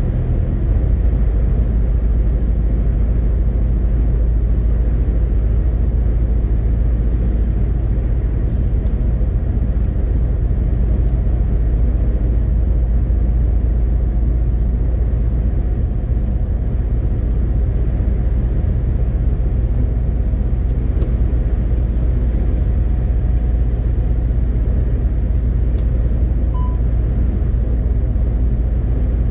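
MAN TGX 18.520 truck's six-cylinder diesel engine running steadily under way, with a constant deep rumble of engine and road noise.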